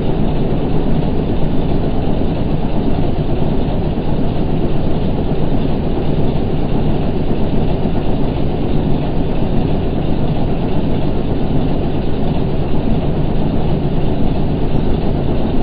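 Excavator engine running steadily under load, a dense, even machine noise with no breaks.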